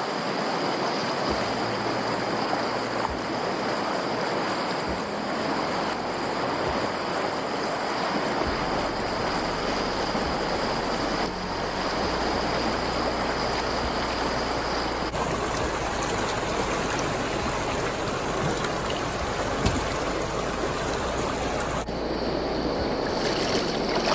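Rushing river water, a steady wash of noise, changing abruptly about eleven, fifteen and twenty-two seconds in.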